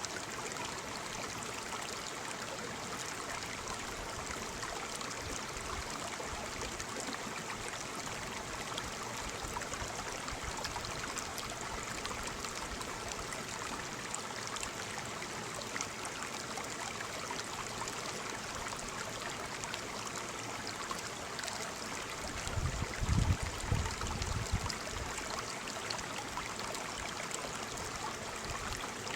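Waterfall: falling water running with a steady, even rush. Near the end a low rumble rises over it for about two seconds.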